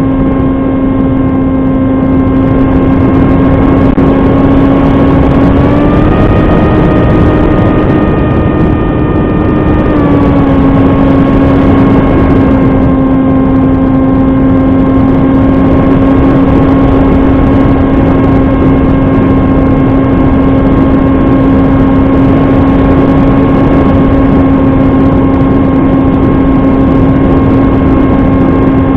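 Electric RC model plane's brushless motor and propeller running at a steady whine over a rush of wind noise. The pitch rises slightly about five seconds in as the throttle opens, then settles back a few seconds later.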